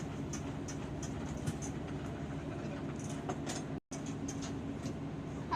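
Steady engine drone, cut off for a split second just before the four-second mark.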